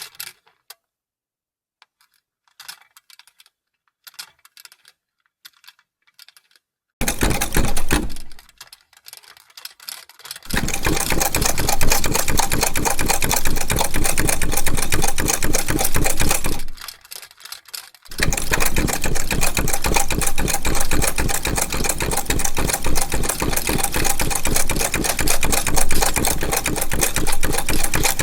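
Vintage sewing machine stitching in fast, even runs, after a quiet stretch with a few faint clicks. A short burst comes about seven seconds in, then two long runs with a brief stop between them.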